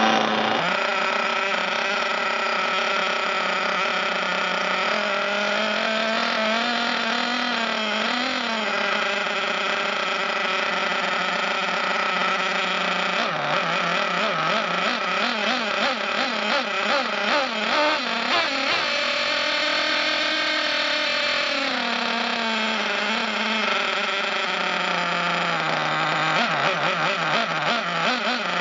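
Losi 8ight 1/8-scale nitro buggy's small two-stroke glow engine running just after a cold start, a high buzzing note. Its pitch wavers up and down, more unsteadily in the second half.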